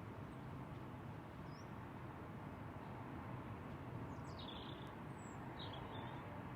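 Small birds chirping faintly, a brief high call about a second and a half in and a few more between about four and six seconds, over a steady outdoor background hiss.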